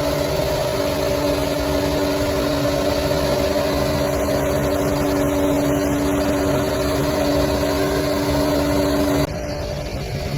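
Bulldozer's diesel engine running steadily with a constant hum. About nine seconds in, the sound drops abruptly to a quieter engine noise.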